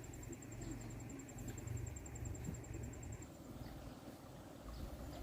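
An insect, cricket-like, trilling in a high-pitched, rapid, even pulse that stops about three and a half seconds in, over a low rumble.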